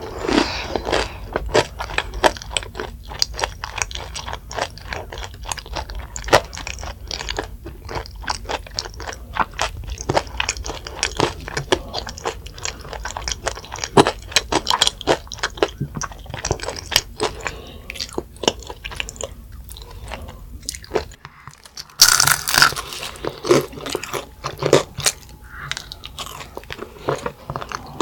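Close-up crunching and chewing of crispy-battered fried chicken drumsticks: irregular crackly bites and chews, with a short break a little past two-thirds through, after which the crunching comes back louder.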